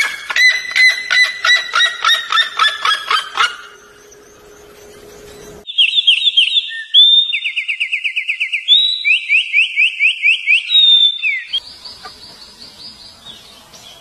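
Birds calling: a rapid run of repeated, slightly falling notes for about three and a half seconds. After a short lull, a small songbird sings a string of fast trills that jump between pitches for about six seconds, then fades to faint high chirps near the end.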